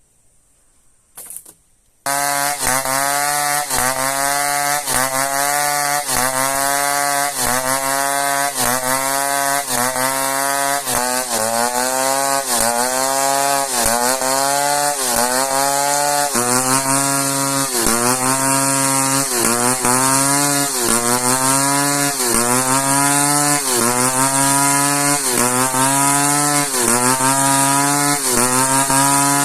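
Chainsaw cutting a seasoned merbau hardwood log, starting suddenly about two seconds in. The engine's pitch drops and recovers about once a second as the chain bites into the hard wood.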